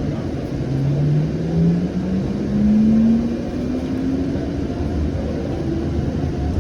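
Siemens S700 light rail car pulling away: its traction motor whine rises in pitch in steps over the steady rumble of the running train.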